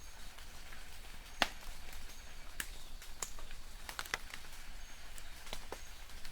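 Light rain falling in a forest, with a soft steady hiss and irregular sharp drips of drops hitting leaves, the loudest about a second and a half in. Short faint high chirps of distant birds come a few times.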